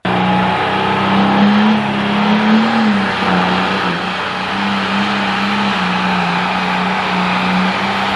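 Turbocharged diesel engine of a super stock or pro stock pulling tractor running hard, one loud sustained engine note that wavers slightly in pitch.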